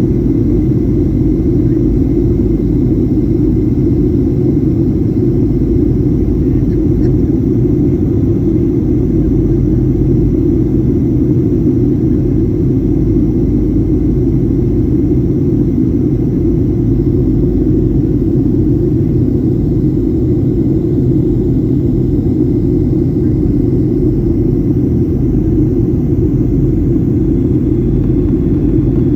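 Steady low rumble of engine and airflow noise inside a Boeing 737-800's cabin in flight, with a faint constant whine above it.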